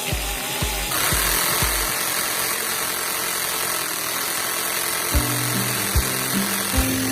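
An electric drill-driven cutter runs with a steady high whine and hiss, starting about a second in, over background music with a beat.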